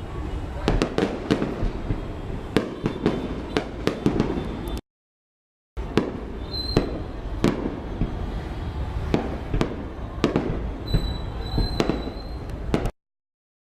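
Fireworks display: rapid, overlapping bangs and crackles over a continuous low rumble. The sound cuts out completely twice, for about a second each time.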